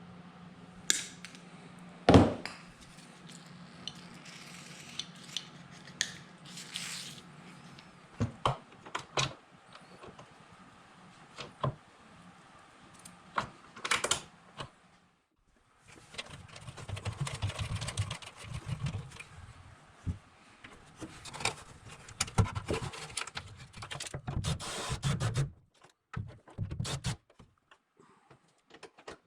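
Metal hand tools and parts clinking, knocking and scraping during hands-on work on a vehicle, with a sharp clank about two seconds in. A steady low hum sits under the first several seconds.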